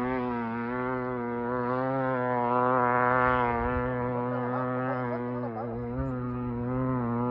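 Two-stroke dirt bike engine buzzing at steady, nearly constant revs, its pitch wavering slightly.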